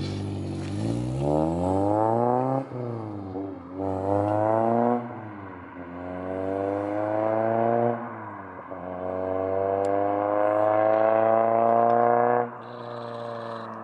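Honda Civic Si's 2.0-litre four-cylinder through a PLM header and K-Tuned 3-inch exhaust, accelerating through the gears: four rising pulls broken by three upshifts. Near the end the throttle closes and the note falls off.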